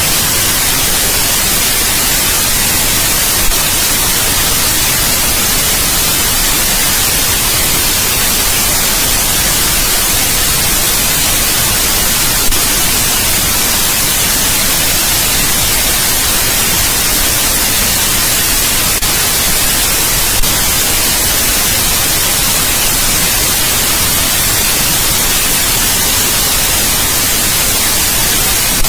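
Steady electronic white noise: an even, unchanging hiss, strongest in the treble. A few faint clicks break through it, three times.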